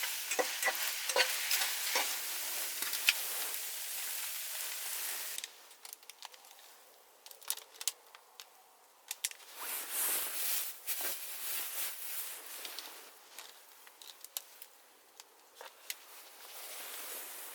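Food sizzling and frying in a pan over a campfire, with the clicks and scrapes of stirring. About five seconds in the sizzling cuts off abruptly, leaving quieter scattered clicks and crackles with a couple of short swells of hiss.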